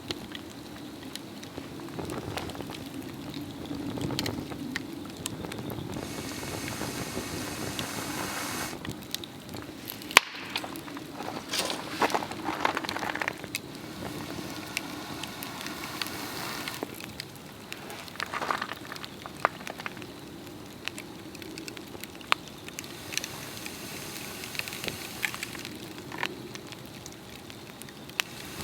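A Swedish torch, a slit upright log burning from the inside, crackling and hissing steadily with frequent sharp pops of burning wood. One pop about ten seconds in is louder than the rest.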